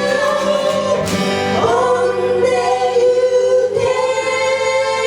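Live band with several singers in unison, holding long notes over instrumental backing, the chord changing about a second in and again near the end.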